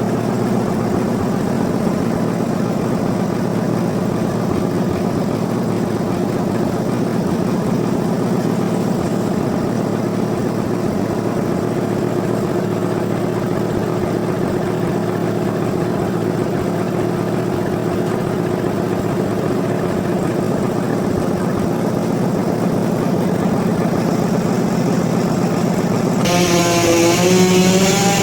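Sawmill machinery engine running steadily at an even pitch. About 26 s in, a chainsaw comes in louder and higher, revving with a wavering pitch.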